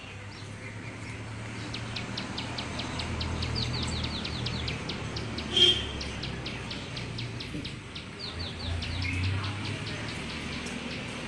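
Birds chirping: a fast run of short high notes, several a second, with a few downward-sliding calls among them. A single louder sharp sound cuts in about halfway through, over a low background rumble.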